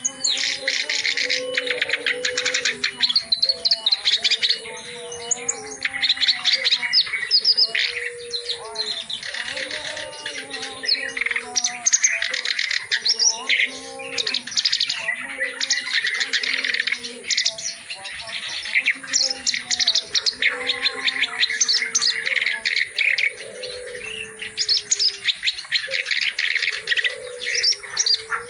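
Kerak basi (reed warbler) singing a long, busy song of rapid chirps and trills, packed with varied phrases, in loud bouts with short breaks. A lower, repeated cooing call sounds underneath much of the time.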